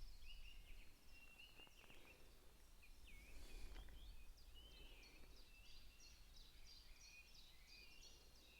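Faint birdsong outdoors: a chorus of many short, quick chirps and trills from several small birds, over a low steady rumble.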